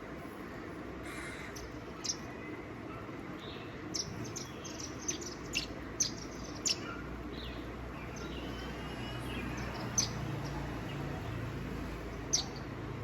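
Birds chirping in scattered short, sharp notes, several bunched together in the middle and single ones near the end, over a steady low background rumble.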